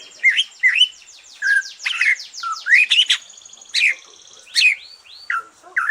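Cucak ijo (green leafbird) singing after finishing its moult: loud, varied whistled notes, many swooping up or down, with a fast run of short falling high notes in the first half and steady high whistles behind.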